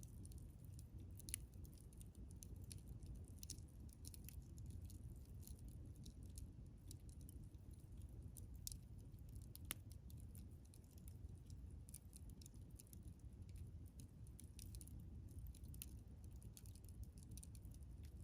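Wood campfire crackling faintly: a steady scatter of small sharp pops and ticks, with two louder pops about a second in and about halfway through, over a low steady rumble.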